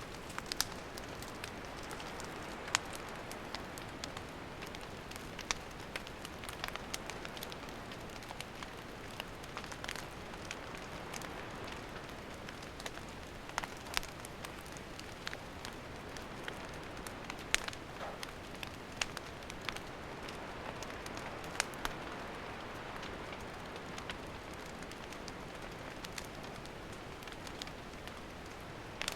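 Wood campfire burning, a steady hiss broken by irregular sharp crackles and pops of the burning wood.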